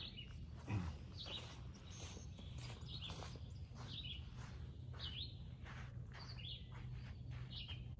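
Songbirds chirping: short calls that drop slightly in pitch, repeating about once a second, faint over a steady low outdoor hum.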